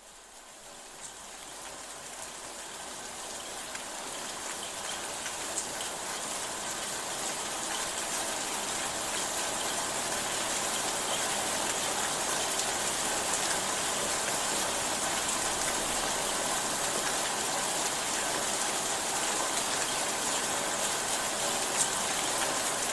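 Steady rain falling, fading in over the first several seconds and then holding even, with the odd louder drop.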